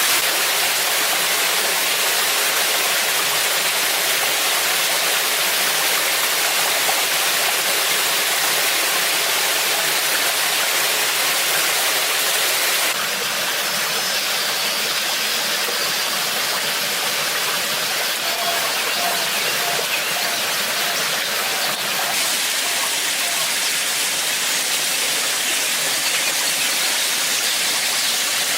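Waterfall, a steady rushing of falling water. Its tone shifts abruptly twice, about halfway through and again two-thirds of the way in.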